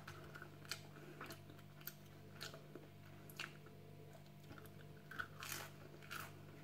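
A person biting into and chewing a crunchy snack, giving irregular crisp crunches about once a second over a faint steady hum.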